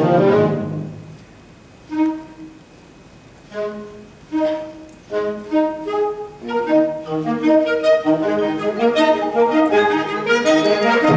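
An instrumental ensemble playing a concert piece: sparse separate notes with short gaps at first, then more and more parts join from about six seconds in, growing into a fuller, louder passage.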